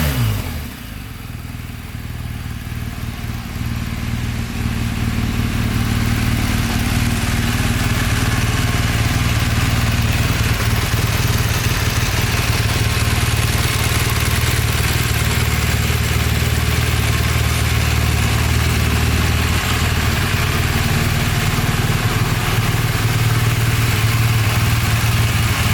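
BMW R1200GS flat-twin boxer engine idling steadily. Its pitch falls at the very start as a rev dies away.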